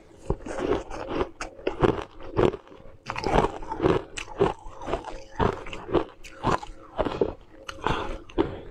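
Close-up eating sounds of someone biting and chewing frozen, frost-covered cubes: a quick run of crisp, crackly crunches, several a second.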